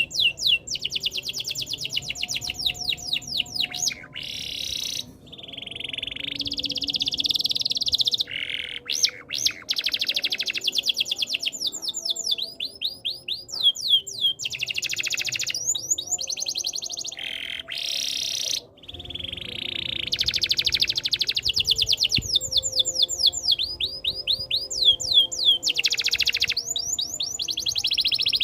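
Domestic canary singing a long, continuous song of fast repeated chirps and rolling trills, switching to a new phrase every second or two, with a couple of brief pauses.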